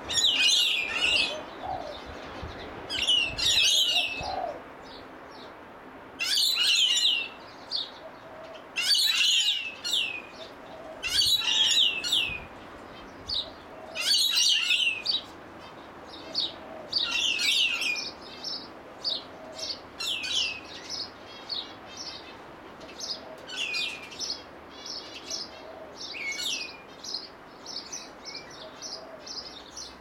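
Birds calling: a series of short, high calls with falling sweeps, loud and spaced a couple of seconds apart at first, then quicker and fainter in the second half.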